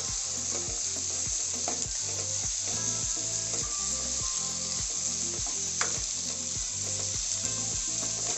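Sliced onions, tomatoes, green chillies and herbs sizzling steadily in hot oil in a non-stick kadai while being stirred with a slotted spatula. A couple of brief scrapes of the spatula against the pan stand out, about two seconds in and near six seconds.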